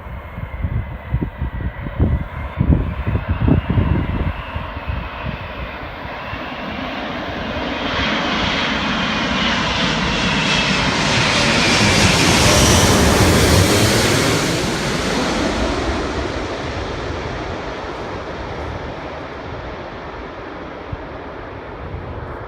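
Airbus A380-800 on approach passing close overhead: jet noise swells to a peak about halfway through, with a whine that falls in pitch as it passes, then slowly fades. Wind buffets the microphone in the first few seconds.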